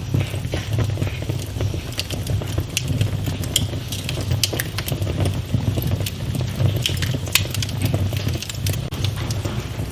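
Wood fire burning in a fireplace, crackling with irregular pops and snaps over a steady low rumble of the flames.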